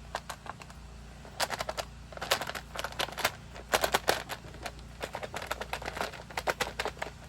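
Irregular clicks, taps and short rattles of plastic chainsaw parts being handled and pushed into place as the air filter goes back on the saw.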